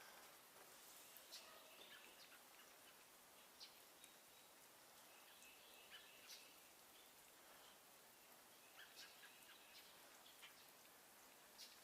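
Very quiet outdoor air with faint, scattered short bird chirps and calls coming every second or two.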